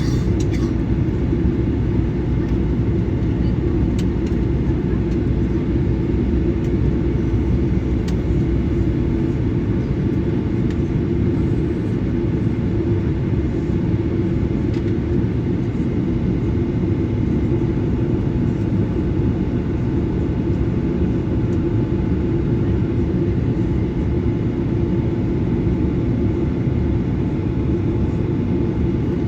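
Steady cabin rumble of a Boeing 737-900ER with its two CFM56-7B engines running, heard from inside the cabin, unchanging in level throughout.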